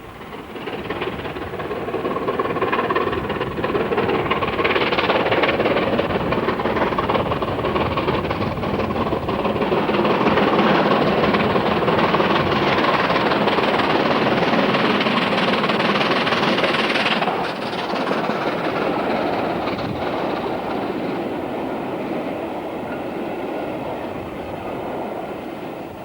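Bulleid West Country-class steam locomotive hauling a passenger train past. The sound builds up over the first couple of seconds, holds loud, drops suddenly about two-thirds of the way through, then slowly fades.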